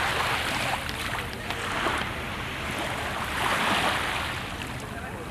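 Sea waves breaking and washing onto the shore, the surf swelling and fading roughly every two seconds, over a steady low rumble.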